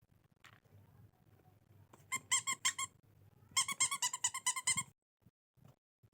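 Rapid high-pitched squeaks in two runs: a short run of about five about two seconds in, then a longer run of about a dozen after a pause.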